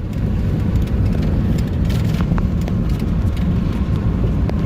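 2019 Ram 5500's Cummins 6.7-litre turbo-diesel pulling under throttle as the truck starts up a grade, heard as a steady low rumble mixed with road noise. A faint high tone comes in near the end.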